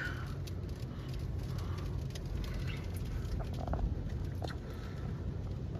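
Strong storm wind blowing across the microphone: a steady low rush with a few faint ticks.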